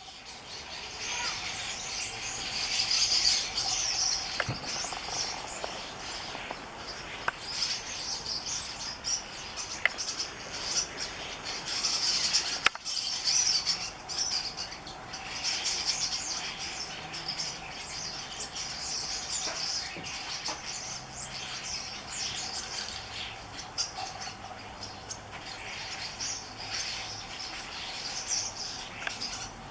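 A flock of birds, which the uploader takes for fieldfares, chattering noisily with many overlapping high calls.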